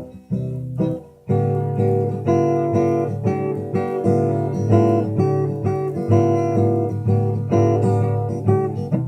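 Acoustic guitar strummed in a steady rhythm, chords ringing between the strokes, with a short break about a second in.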